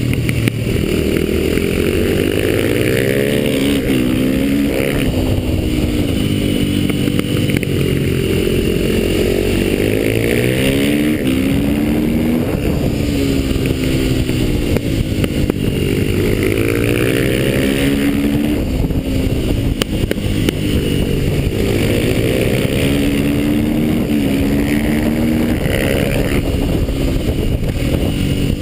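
KTM supermoto motorcycle engine at speed on a track, its revs rising repeatedly under acceleration and dropping back at each gear change and corner entry, over a steady rush of wind.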